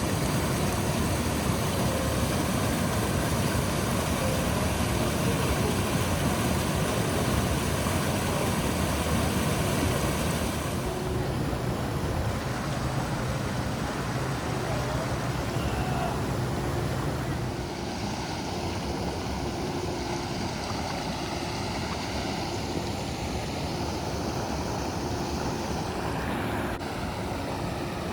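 Four-wheel-drive vehicle on the move: engine running under a steady rush of noise, with the sound shifting about ten seconds in and again about eighteen seconds in.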